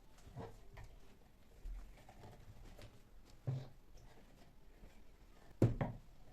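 A few scattered knocks and bumps of household objects being handled and set down, the loudest a quick double knock near the end.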